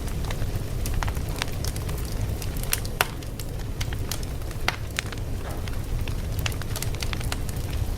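Wood fire crackling: a steady low rumble of flames with irregular sharp pops and snaps, a few louder ones about three and four and a half seconds in.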